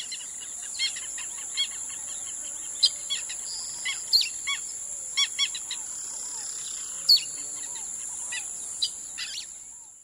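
Birds chirping in many short, quick notes over a steady high-pitched whine. The sound fades out near the end.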